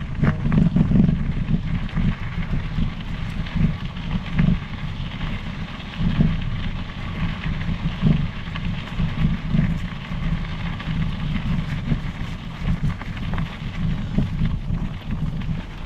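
Wind buffeting the microphone during a bicycle ride, a fluctuating low rumble, over the rolling noise of mountain-bike tyres on the trail with scattered small clicks and rattles.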